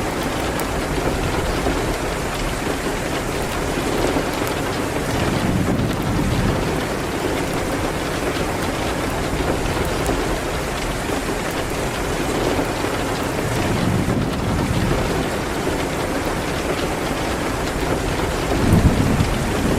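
Steady rain on a window, an even hiss, with low rumbles swelling now and then and a louder one near the end.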